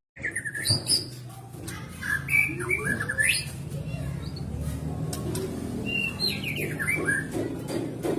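White-rumped shama (murai batu) singing short, varied whistled phrases in bursts, after a brief silence right at the start.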